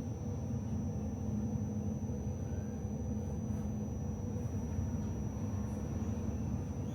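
Steady low rumble inside a Melbourne tram as it runs, with a faint steady high-pitched whine over it.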